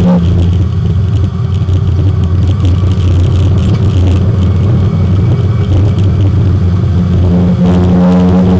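Inside the cabin, the Porsche 924 race car's four-cylinder engine drops off throttle at the start, leaving a lower rumble. About seven and a half seconds in, the engine note builds back up as the throttle is reapplied.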